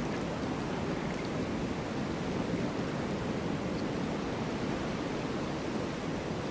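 Snowstorm wind blowing as a steady, even rush with no distinct gusts or events.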